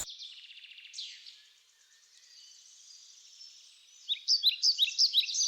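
Small songbird singing: faint quick chirps at first, then from about four seconds in a fast run of loud, short, sharp notes that drop in pitch.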